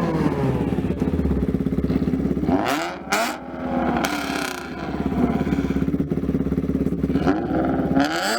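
Engine exhaust revved: the revs fall away at the start, then it runs with a choppy, pulsing idle. It is blipped sharply about three seconds in and again near the end.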